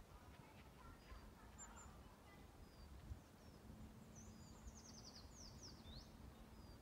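Faint songbirds in a conifer forest: scattered high chirps, then a quick run of high notes about four seconds in ending in a couple of falling sweeps, over a low wind rumble.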